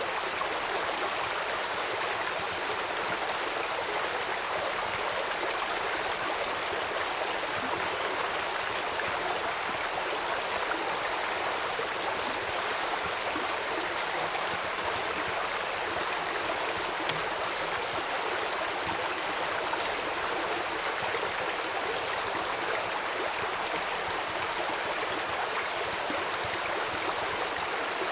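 Flowing stream, a steady rushing of water. Through the middle a faint, short, high call repeats about once a second.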